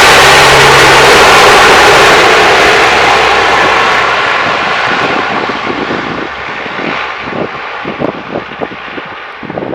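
Large four-engined turboprop military transport aircraft passing very close and loud, then receding, its engine noise fading and growing duller. Irregular short thumps come through in the second half.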